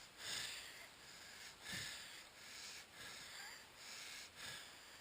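A man's heavy breathing, about one breath every second and a half, in faint rhythmic swells.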